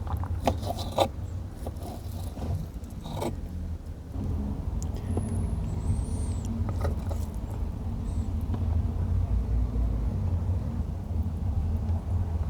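Steady low rumble of a car engine running. A few sharp clicks of a knife cutting food on a board come in the first second and again about three seconds in.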